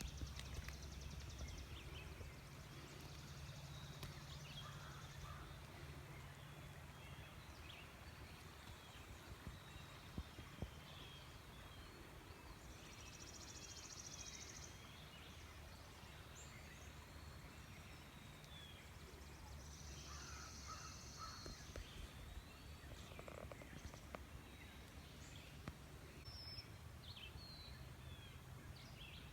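Wild birds chirping and calling, with a high buzzy trill repeated three times, over a faint steady low rumble.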